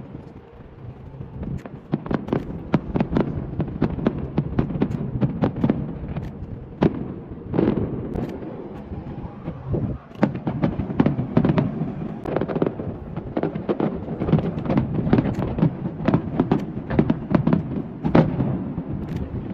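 Fireworks going off in a dense run of sharp bangs and crackles over a low rumble. The run starts about two seconds in and dips briefly near the middle.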